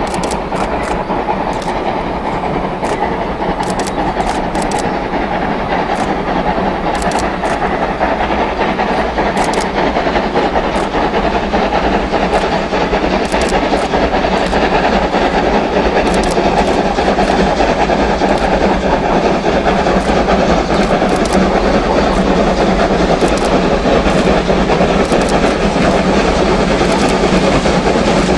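A train running along the rails: a steady rumble with many short clicks from the wheels, slowly growing louder.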